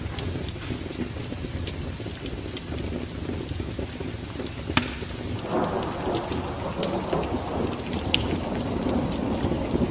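Wood fire crackling, with scattered sharp pops over a steady low rumble. About halfway through, a louder rushing noise swells in and keeps on under the crackle.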